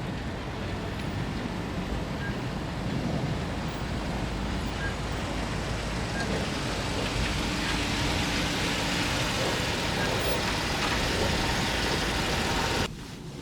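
Steady car and road traffic noise, an even rushing sound that swells a little midway and cuts off suddenly shortly before the end.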